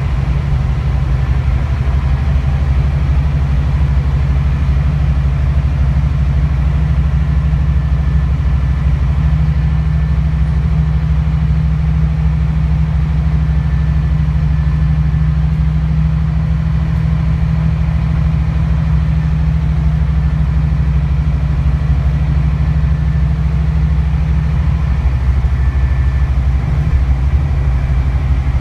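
Scania K360IB coach's engine idling steadily, with an even pitch and no revving.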